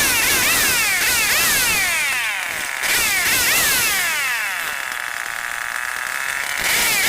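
Stihl 070 chainsaw's large two-stroke engine running with the throttle blipped repeatedly, the revs rising sharply and falling away about twice a second. Past the middle they sag once more slowly, then pick back up.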